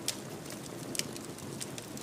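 Wood fire burning in a fireplace: a steady low rush with sharp crackles and pops, two louder pops near the start and about a second in.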